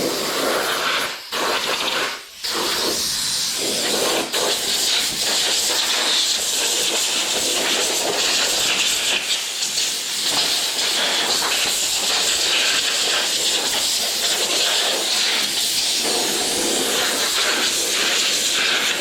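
Compressed air hissing from an air hose nozzle as it blows dirt off an RC car. The blast cuts out briefly twice in the first few seconds, then runs steadily.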